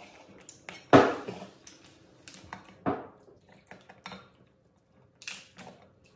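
Clinks and knocks of cutlery and lobster shell pieces on ceramic plates during a meal: a sharp clink about a second in, others near three seconds and past five, with lighter clatter between.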